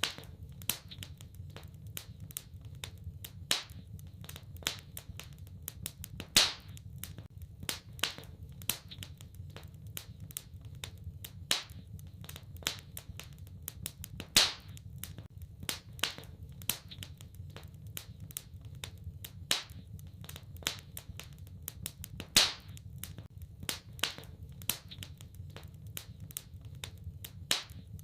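Wood fire crackling: irregular sharp pops and snaps, a few louder ones, over a low steady rumble of the burning fire.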